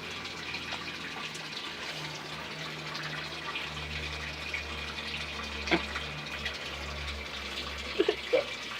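Water running steadily from a tap, with a single sharp knock a little over halfway through.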